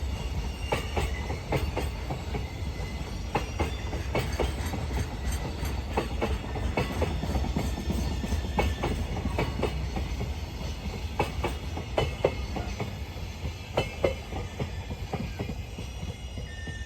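Container freight wagons rolling past with a steady low rumble, their wheels clacking sharply and repeatedly over rail joints. A faint high-pitched wheel squeal comes and goes.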